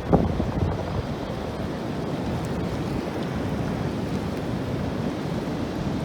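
Steady rush of water where a storm-swollen river pours into the sea, with wind buffeting the microphone; a brief louder gust just after the start.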